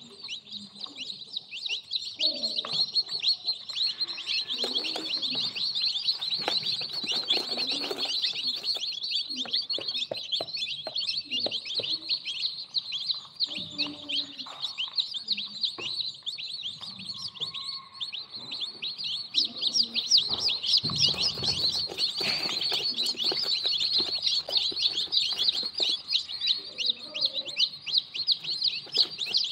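A crowd of newly hatched birds cheeping continuously, many short high peeps overlapping into a steady chorus. Scattered soft knocks sound underneath.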